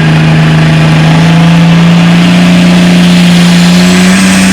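International 1066 pulling tractor's engine running hard under load as it pulls the sled, one loud steady note creeping slowly up in pitch.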